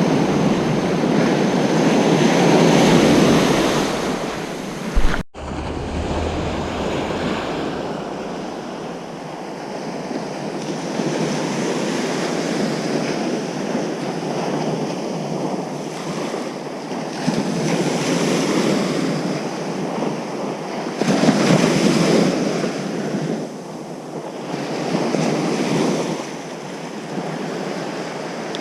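Ocean surf breaking and washing up a beach, swelling and ebbing every few seconds, with wind on the microphone. About five seconds in there is a single sharp pop followed by a split-second gap in the sound.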